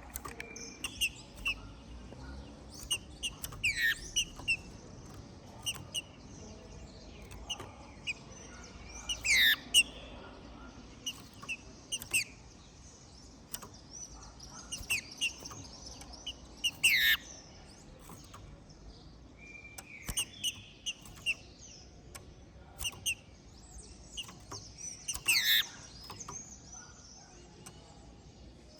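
A green-winged saltator (trinca-ferro) calling with a run of short chipping notes, broken four times by a loud note that sweeps sharply downward.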